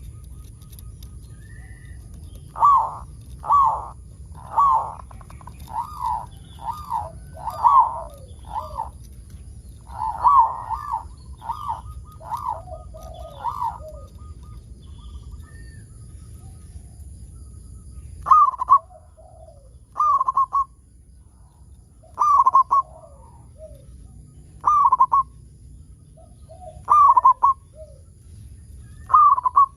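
Zebra dove (perkutut) cooing: a quick run of short, clipped coos for about ten seconds, then single coos roughly every two seconds.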